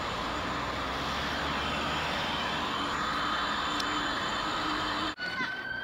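Small electric motors and plastic gearboxes of a 12 V children's ride-on quad bike whining steadily as it drives, over a hiss of outdoor noise. About five seconds in the sound cuts off abruptly and a steady high siren-like tone begins.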